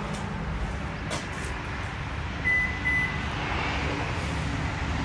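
Steady low rumble, like an engine or machinery running. About halfway through, two short high electronic beeps sound, the second a little longer than the first.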